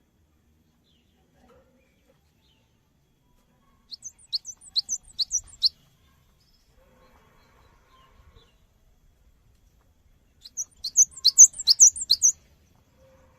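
Cinereous tit (gelatik batu) singing: two quick bursts of sharp, high repeated notes, the first about four seconds in and a louder, longer one near the end.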